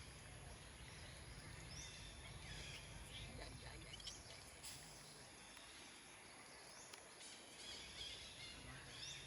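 Faint outdoor ambience: a low steady rumble with scattered short, faint high chirps and calls.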